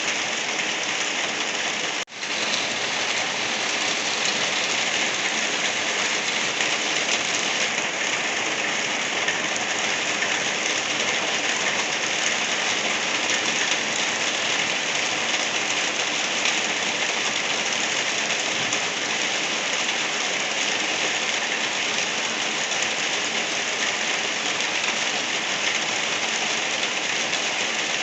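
Light rain falling steadily on a surface, an even hiss that cuts out for an instant about two seconds in.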